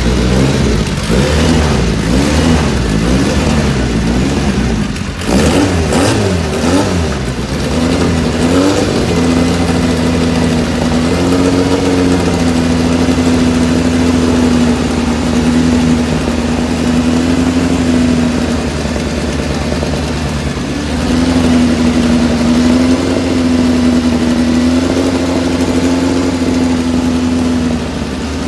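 A historic racing car's engine being revved, the pitch rising and falling over the first several seconds, then held at steady revs for most of the rest, with a brief dip about twenty seconds in.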